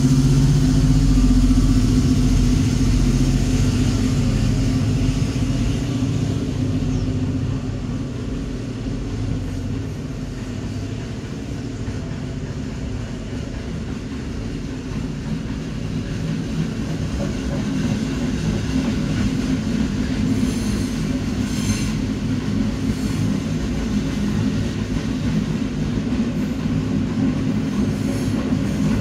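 Long freight train pulling out: the locomotive's loud low drone fades over the first several seconds, then the wagons roll past with a steady rumble of wheels on rail that grows a little louder toward the end.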